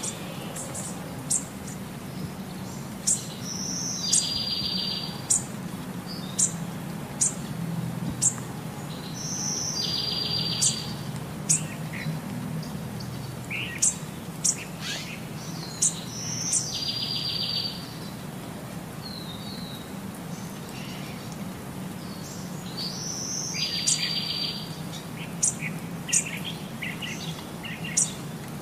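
Birdsong: sharp high chirps and a short buzzy trill that comes back with the same shape about every six to seven seconds, over a low steady rumble.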